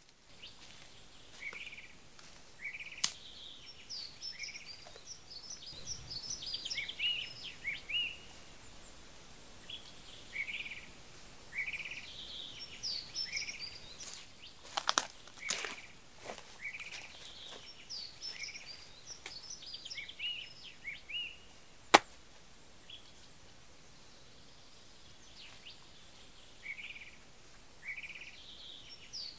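Wild songbirds singing in a forest, with repeated short chirps and trills throughout. A few sharp clicks sound among them, the loudest about three-quarters of the way in.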